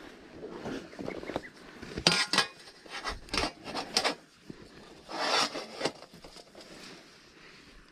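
Camping gear being handled: light knocks and clicks with rustling and scraping, and two louder rustles about two and five seconds in.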